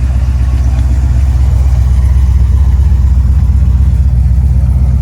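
Twin-turbo LS V8 in a Holden HG Premier idling, loud and steady, with a deep, rapidly pulsing exhaust note.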